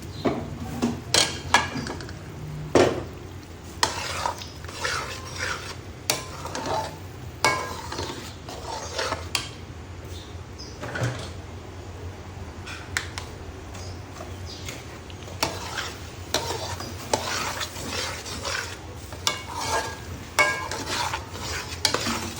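A spoon stirring and scraping in a cooking pot, with irregular knocks against the pan and food sizzling underneath.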